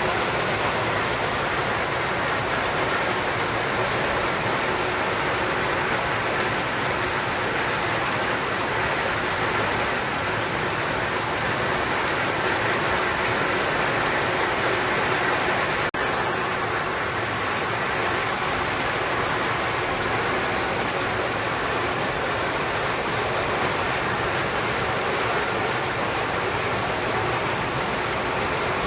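Steady rushing of water, with a brief dropout just past the middle.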